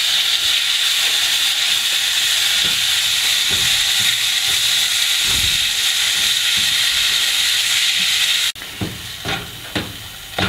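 Freshly added chopped tomatoes sizzling loudly in hot oil and spices in a frying pan, stirred with a spatula. About two seconds before the end the hiss drops suddenly to a quieter sizzle with short spatula scrapes against the pan.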